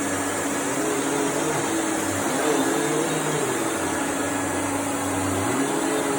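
Vacuum cleaner running steadily: an even rushing noise with a constant motor hum.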